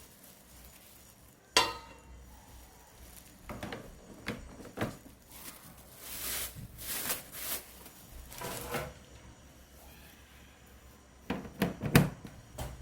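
Kitchenware being handled: a sharp ringing clink about one and a half seconds in, scattered knocks and rustling through the middle, and a quick cluster of clatters near the end.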